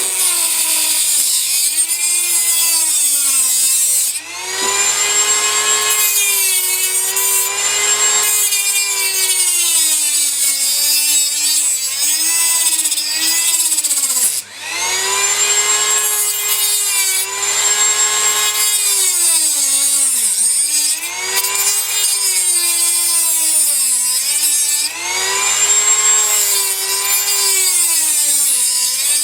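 Dremel rotary tool on a flexible extension shaft cutting through model railway track, its high whine sagging in pitch as the cutter bites under load and rising again as it eases off. The motor dips briefly about 4 and 14 seconds in.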